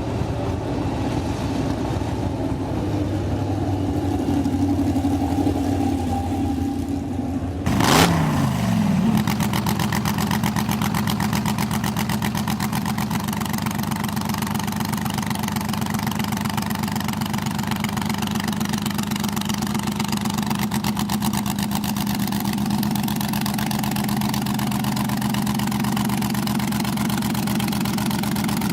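Vintage race car engine running close by. About eight seconds in a short loud burst drops quickly in pitch, then the engine settles to a steady, even idle with a regular beat.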